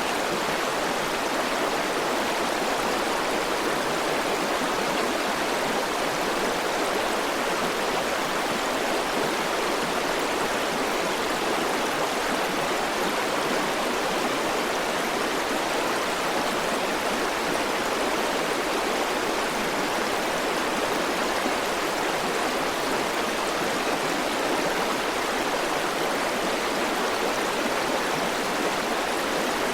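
River water flowing and rushing over rocks, a steady unbroken rush with no change in level.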